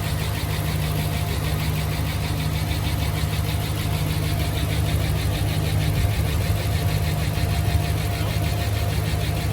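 Dodge Ram Hemi V8 idling steadily with a fast, light valvetrain ticking over the low engine hum, in an engine being checked for a failed MDS lifter. The noise is settling as the engine runs.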